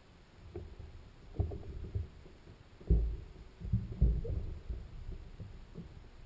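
A series of dull, low thumps and knocks, irregularly spaced, the loudest about three and four seconds in.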